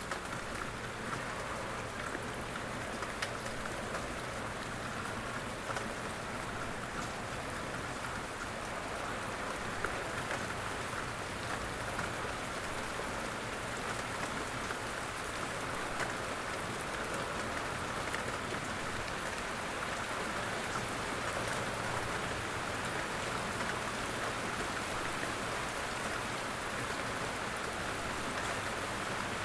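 Steady rain falling, an even hiss of drops on a surface with scattered individual drop ticks.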